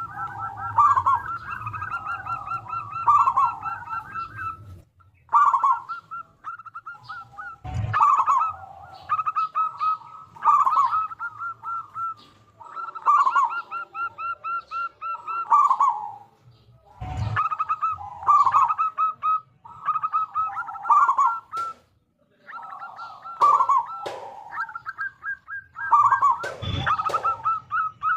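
Zebra dove (perkutut) cooing: repeated phrases of quick staccato coo notes, one every two to three seconds. A few sharp knocks are heard among them.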